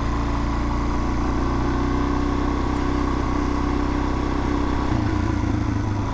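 Suzuki DR-Z400's single-cylinder four-stroke engine running under the rider with a steady note that shifts in pitch about five seconds in.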